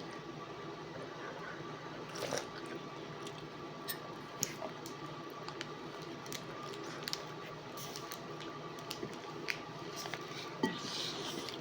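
A person biting into and chewing shawarma close to the microphone: irregular wet squishes and small crunchy clicks, over a faint steady hum.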